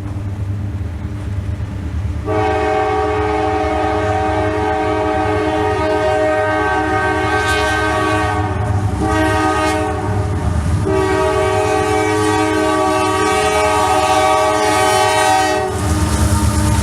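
Freight diesel locomotive's multi-note air horn sounding a long blast, then a short one, then another long one, starting about two seconds in and stopping shortly before the end. Beneath it the rumble of the train running through at speed.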